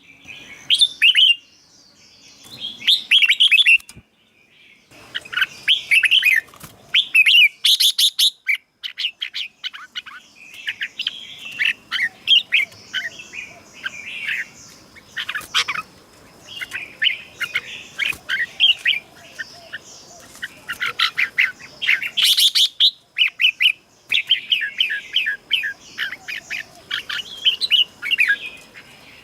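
Red-whiskered bulbul singing: phrases of quick, bubbling notes, one after another with short pauses between them.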